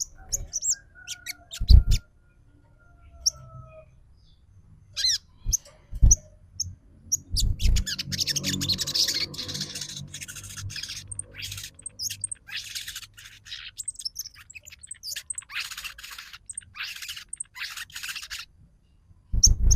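Sogon trotol bird calls played as a lure: thin whistles in the first seconds, then a long run of rapid, harsh chattering notes. A few short low thumps come early on and again just before the end.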